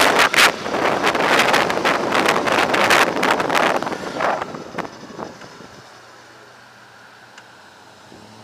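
Wind buffeting the microphone of a rider on an electric motorbike, in loud gusts that die away about four to five seconds in, leaving a faint steady hum.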